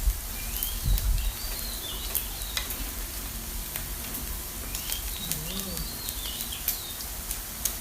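Slices of pork belly sizzling on a hot tabletop grill pan: a steady frying hiss with sharp crackles of spitting fat. A few short high chirps sound in the background twice.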